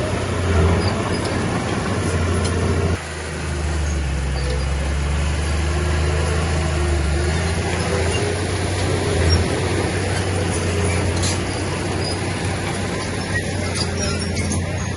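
Heavy diesel engine of earthmoving machinery running steadily with a deep hum. The sound drops abruptly about three seconds in and carries on.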